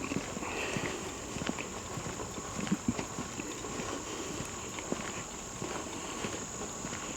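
Footsteps of a person walking on a trail, an uneven run of soft knocks, over a steady high-pitched hum.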